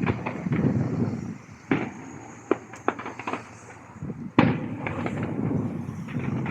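Fireworks salute: a series of sharp bangs from bursting shells over a rolling low rumble, the loudest bang about two-thirds of the way through.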